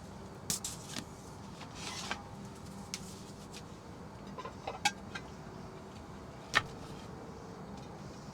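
Cooking gear being handled while a meal is started: a few sharp clicks and light knocks spread out, with a short hiss about two seconds in, over a faint steady hum.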